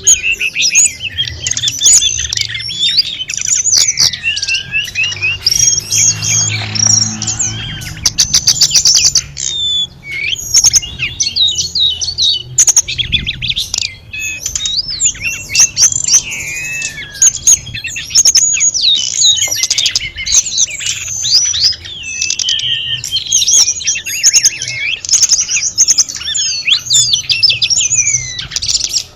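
A tledekan gunung songbird singing a fast, unbroken run of varied whistles, trills and chirps, rich in mimicked phrases.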